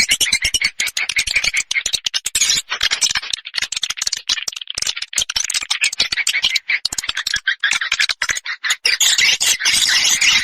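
Edible-nest swiftlet calls: a dense, continuous chatter of high twittering chirps mixed with rapid clicking, of the kind used as a swiftlet lure sound.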